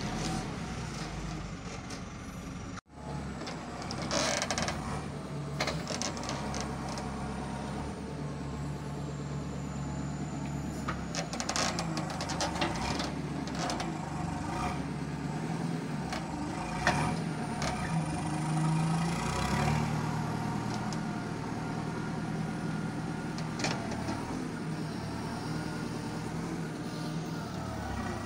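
JCB 3CX backhoe loader's diesel engine running under working load, its speed rising and falling, with scattered knocks. The sound cuts out abruptly for an instant about three seconds in.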